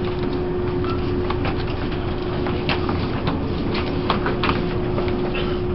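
Taiwan Railways E1000 push-pull Tze-Chiang express running, heard on board: a steady rumble with a constant hum and scattered light clicks and knocks.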